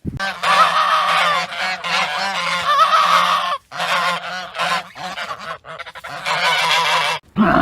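A flock of birds calling, many calls overlapping, with a short break about three and a half seconds in.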